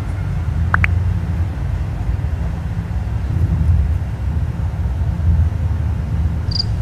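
Steady low rumble with a brief high rising squeak about a second in. Near the end, short high chirps of the feeder black crickets begin.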